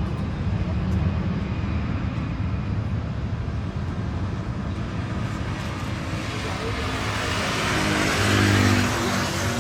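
Airbus A320 jet with CFM56 engines on its takeoff run, a steady low rumble with the engine roar swelling to its loudest about eight to nine seconds in, its pitch falling as it passes.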